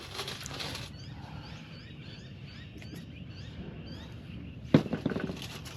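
A small bird chirping over and over in short rising chirps, with a rustle at the start. A brief, louder pitched sound comes near the end.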